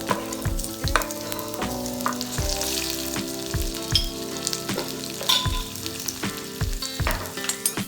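Food sizzling and crackling as it fries in a pan, under background music with held notes and a steady low beat of about two thumps a second.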